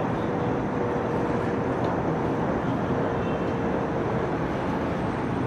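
Steady outdoor noise of city traffic and railway beside the tracks, with a faint steady hum that grows slightly stronger near the end as a train approaches.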